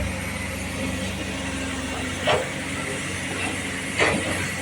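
Large diesel engine running steadily, with two short hisses of air about two and four seconds in.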